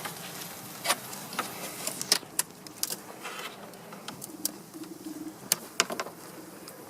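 Honey bees buzzing around an opened hive, with scattered sharp clicks and knocks as the hive parts and queen excluder are handled.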